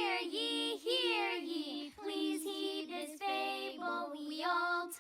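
Cartoon characters singing a cheerful song in child-like voices, with sustained, gliding sung notes.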